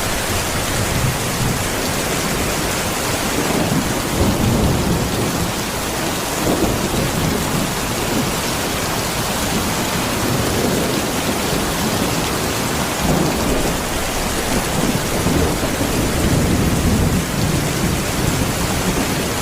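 Steady heavy rain falling, with low rumbling that swells and fades every few seconds.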